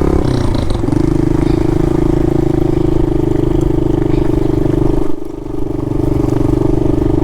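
Pit bike engine running steadily while riding, a strong even engine note that dips briefly about five seconds in.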